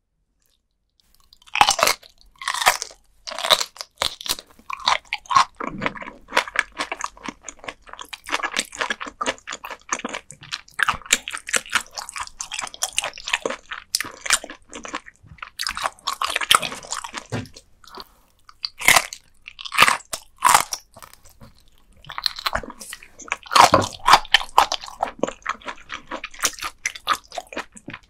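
Close-miked crunching and chewing of raw gizzard shad eaten bones and all, the soft fish bones crackling between the teeth. Loud bites start about a second and a half in, followed by quick, crisp chewing with short pauses.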